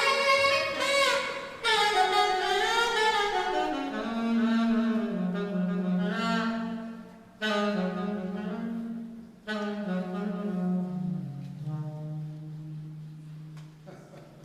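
Alto saxophone playing slow, held notes that step downward into its low register and die away at the close of a piece, with fuller accompaniment in the first few seconds.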